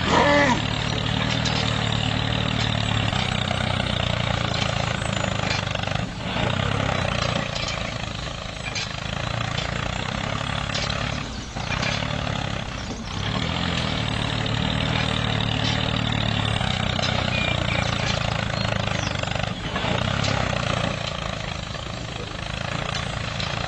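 Small tractor motor running steadily with a low hum and a hiss-like rush above it, broken by a few short dips.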